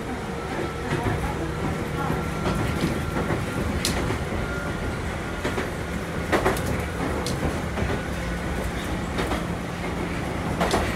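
Wakayama Electric Railway 'Tama' train heard from inside the front car while running along the track: a steady low motor hum and rumble, with the clack of the wheels over rail joints a few times, loudest a little past the middle and again near the end.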